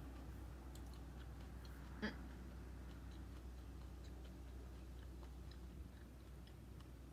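Close-miked chewing of crunchy cereal: soft crunches and small clicks, with one louder crunch about two seconds in, over a low steady hum.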